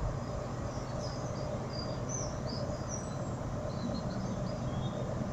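Diesel train engines idling at a station platform, a steady low drone. Birds chirp in short high calls over it from about a second in until near the end.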